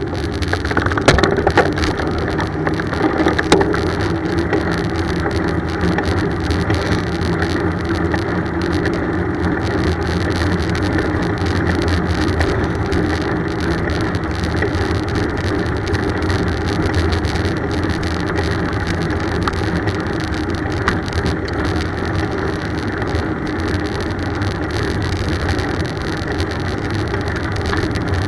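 Steady road rumble and wind noise from a moving bicycle, with a few sharp knocks in the first few seconds.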